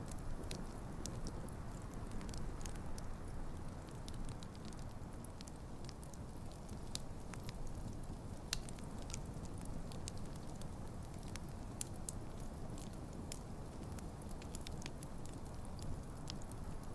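Campfire of burning wood logs crackling, with frequent irregular sharp pops and snaps over the low steady rush of the flames. One louder pop comes about halfway through.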